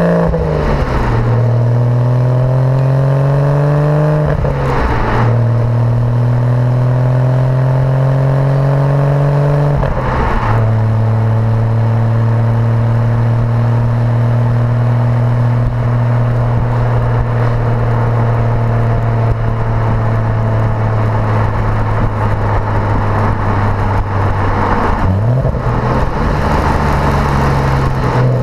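Porsche Boxster engine through a performance sports exhaust, accelerating through the gears. The note climbs and drops sharply at each of three upshifts, about a second in, about five seconds in and about ten seconds in. It then cruises on a steady note that slowly falls, and near the end the pitch dips and climbs again briefly.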